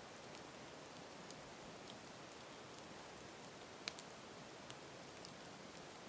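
Campfire burning: a faint steady hiss with scattered small crackles and one louder pop about four seconds in.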